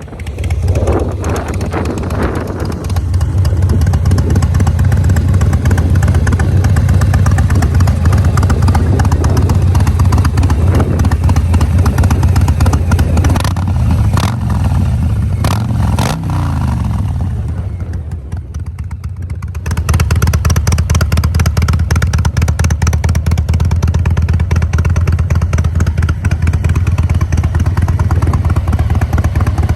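Harley-Davidson Breakout's V-twin exhaust, starting up right at the beginning and idling loud with a deep rumble. About halfway through there are a few throttle blips whose pitch falls away, then it settles back to a steady idle.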